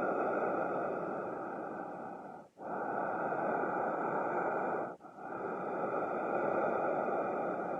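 Human breathing, slow and deep: long drawn-out breaths following one another with barely a pause, a short break about two and a half seconds in and again near five seconds.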